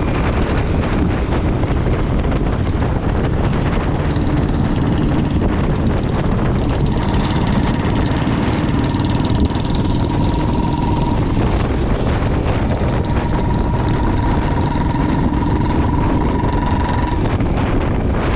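Motorcycle riding along a road: engine running steadily under constant wind rush on the microphone. A steady high whine comes in twice for a few seconds each.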